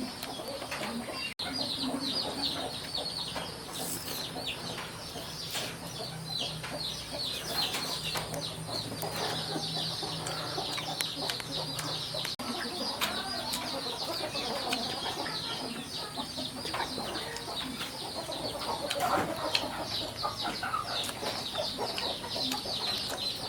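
Chickens clucking, over a continuous chorus of many high, quick chirps.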